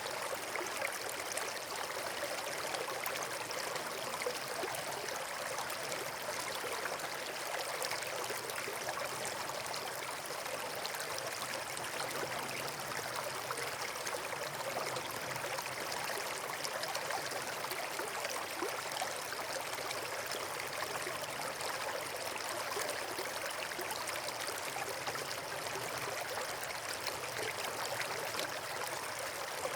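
Steady rush of running water, like a stream or small waterfall, unbroken and even.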